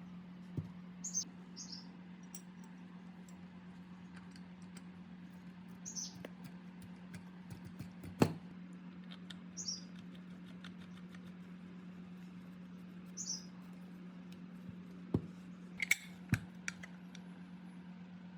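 Scattered light clicks and knocks of small metal parts and tools being handled, with a few short high squeaks, over a steady low hum. The sharpest knock comes about eight seconds in, and a quick cluster of clicks comes near the end.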